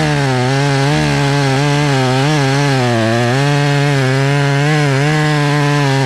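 Two-stroke chainsaw held at high revs, cutting into white oak wood, its engine pitch wavering slightly as the chain loads in the cut.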